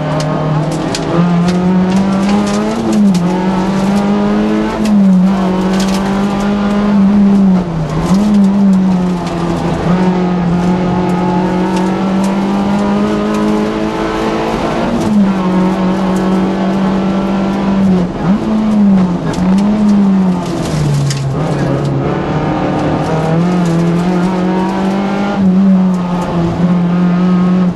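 Peugeot 106 Rallye engine revving hard through a rally stage, heard from inside the cabin. The note holds high, with many short dips and quick recoveries in pitch, as with gear changes and lifts between corners.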